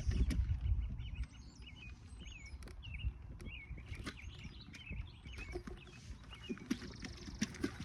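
Small birds chirping repeatedly in short rising and falling notes, over a low rumble that is loudest in the first second or so.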